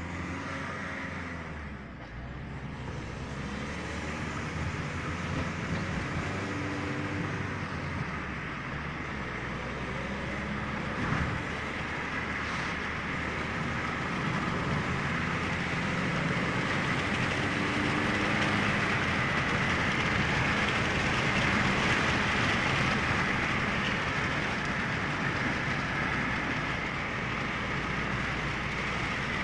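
A moving vehicle: a steady rush of running noise with an engine-like note that shifts in pitch now and then, slowly getting louder.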